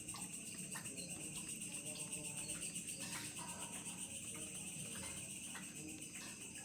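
Night insects chirping steadily in a high, unbroken drone, with a few faint clicks.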